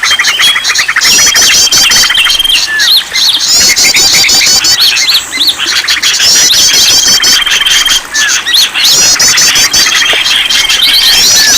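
A dense mix of many songbirds' songs and calls layered over each other: fast chirping trills, a held high whistle and quick rising and falling notes. The same phrases come round again every few seconds. It is a bird-lure (pikat) recording made to stir caged birds into singing.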